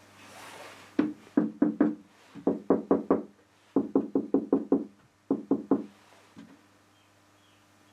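Repeated sharp knocks in four quick bursts, about four a second, each knock leaving a short hollow ring.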